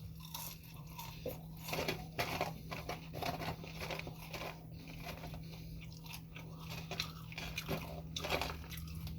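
Close-miked chewing of fried onion rings: irregular crisp crunches of the batter between the teeth, with no speech.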